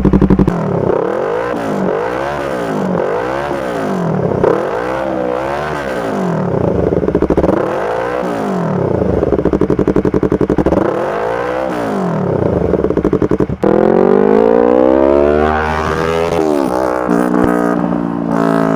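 Motorcycle engine through an SC Project aftermarket muffler, revved in a string of short throttle blips that each rise and fall in pitch. After a sudden break about three-quarters of the way through, it revs up in a long climb and then settles to a steadier, lower note near the end.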